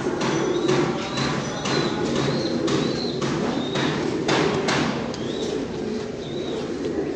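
Domestic fancy pigeons cooing together in a steady low murmur, with short rustling noises and brief high chirps scattered through it.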